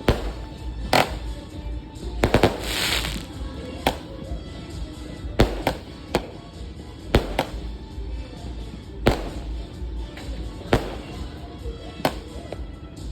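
Fireworks going off in a string of sharp bangs, one every second or two, with a quick run of several bangs about two seconds in followed by a brief crackling hiss.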